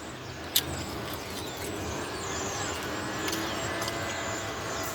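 Steady low rumble like a running vehicle or passing traffic, with a single sharp click about half a second in.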